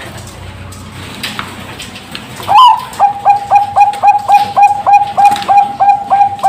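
Zebra dove (Bangkok perkutut) singing: after a lull of about two and a half seconds, a loud rising opening note, then a fast, even run of short cooing notes, about three a second.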